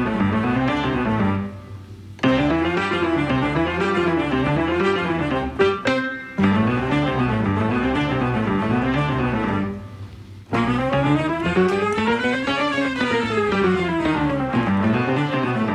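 Upbeat background music with a bouncing bass line. It drops out briefly twice, and a long rising-then-falling sweep runs through it about two-thirds of the way in.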